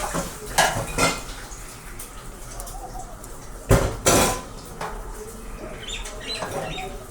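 Metal parts and tools clinking and knocking on a workbench, with four sharp knocks: a pair about half a second apart near the start and a louder pair about four seconds in.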